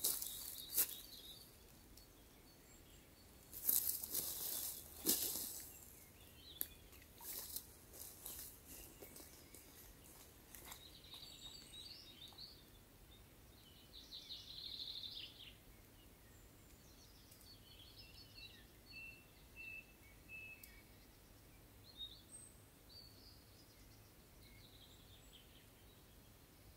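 Small birds chirping faintly now and then over quiet outdoor ambience, after a few sharp rustles and clicks in the first few seconds.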